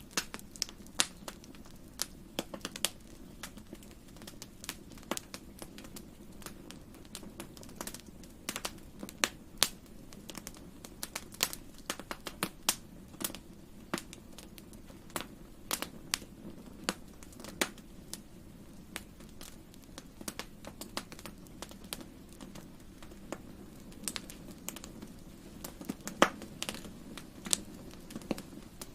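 Fire in a fireplace crackling: irregular sharp pops and snaps, some much louder than others, over a steady low rush of the burning fire.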